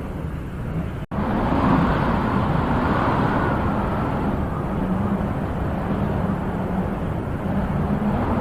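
Wind blowing steadily, with a stronger gust swelling just after a brief dropout about a second in.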